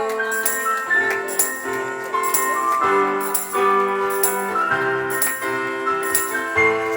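Live instrumental introduction to a ballad: keyboard playing held chords and a stepping melody, with light jingling percussion strokes at a regular beat over it.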